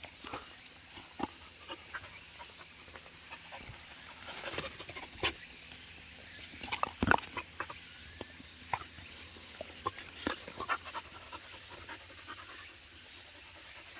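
Jindo dog panting, with scattered short clicks and knocks.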